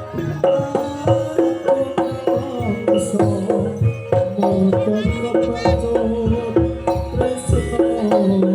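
Javanese jaranan gamelan music: kendang hand drums beating a steady driving rhythm under repeated ringing notes from pitched metal percussion.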